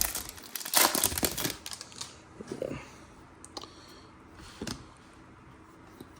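Wrapper of a trading card pack crinkling and tearing open, loudest in the first second and a half. Softer rustles and clicks follow as the cards are handled.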